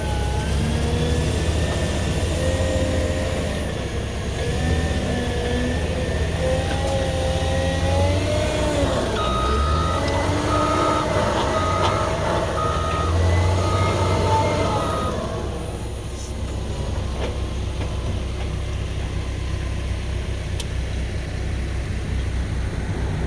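CAT 120M2 motor grader's diesel engine running under load, its revs rising and falling. Near the middle a reversing alarm beeps about once a second for several seconds, and the engine is quieter toward the end.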